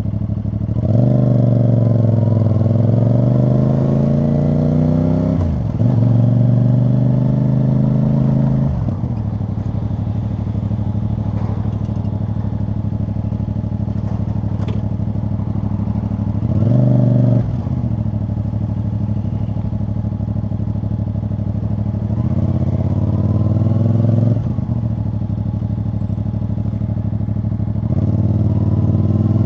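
CFMoto CL-C 450 motorcycle's parallel-twin engine and exhaust heard from the rider's seat, accelerating repeatedly: the note climbs, then drops sharply at each gear change. For several seconds in the middle it runs steadily at a lower, even pitch.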